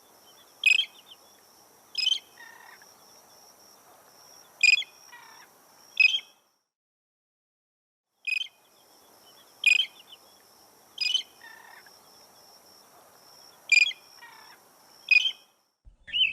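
Tern calling: short, sharp calls, about five in seven seconds, over a faint steady hiss. The same sequence plays again after a silent gap of about two seconds midway.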